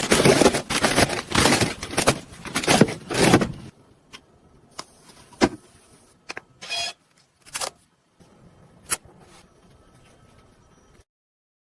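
Busy rustling and clattering of food packs and containers being handled, lasting about three and a half seconds. Then come a handful of separate knocks and clicks, with one short squeak in between.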